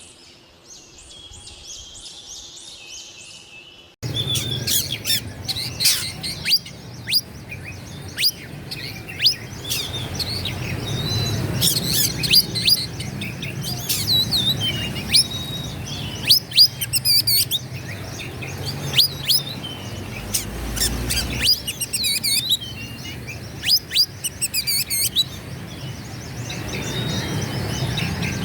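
Oriental magpie-robin singing: a varied song of sharp, rising and falling whistled notes, broken by a few rapid trills. It is soft at first and becomes much louder about four seconds in, over a steady low background hum.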